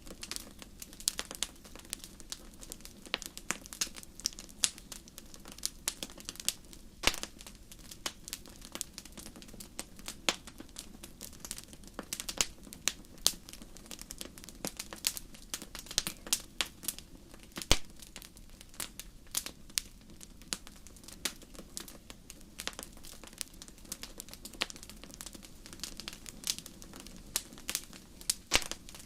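Wood fire crackling in a fireplace: irregular sharp pops and snaps, several a second, over a steady low rush of the burning, with one louder snap a little past halfway.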